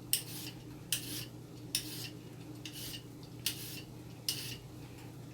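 Kitchen knife chopping raw carrots on a cutting board: six even cuts, about one a second, each a short crunchy slice through the tough carrot.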